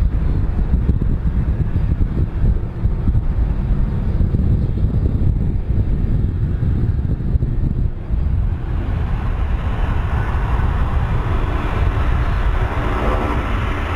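Aircraft engine noise: a heavy steady rumble, with a hissing roar building from about nine seconds in.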